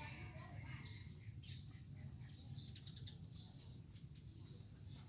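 Faint outdoor morning ambience: scattered short bird chirps, with insects and a low steady hum underneath.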